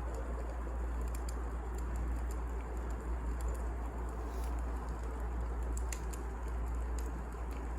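Wood fire burning, with many small, sharp crackles and pops at irregular moments over a steady low rumble.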